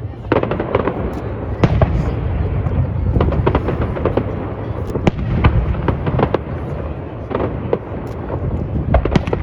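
Fireworks display: a rapid, irregular series of bangs and crackles over a continuous low rumble.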